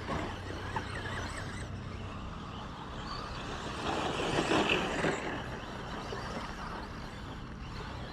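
2WD RC short course trucks racing on the track, their motors and tyres running steadily, growing louder for about a second roughly four seconds in.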